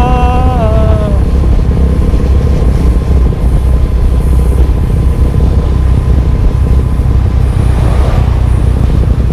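Single-cylinder engine of a Benelli TNT25 motorcycle running steadily on the move, under a heavy low rumble of wind on the microphone. A singing voice fades out about a second in.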